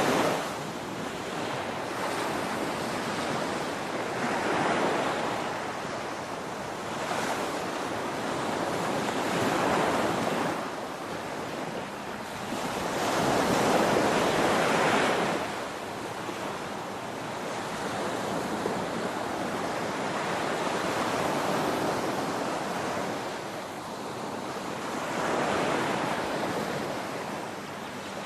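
Ocean surf, waves breaking and washing up a shore in a continuous rush of water noise that swells with each breaking wave every few seconds, the biggest swell near the middle.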